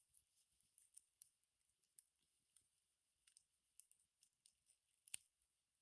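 Campfire crackling: faint, irregular sharp pops and ticks, with one louder snap about five seconds in.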